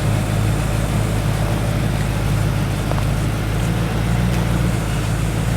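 4WD engine running steadily at low revs as the vehicle crawls slowly over rocks in a creek, with a faint knock or two.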